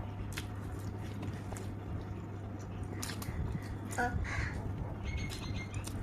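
Eating sounds: scattered mouth and utensil clicks over a steady low hum, with a brief animal call about four seconds in and a quick run of high chirps just after five seconds.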